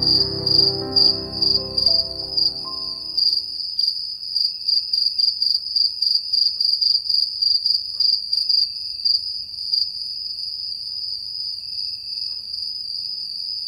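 Crickets chirping in a high, steady trill that pulses several times a second, then settles into an even trill about ten seconds in. Soft piano music fades out in the first few seconds.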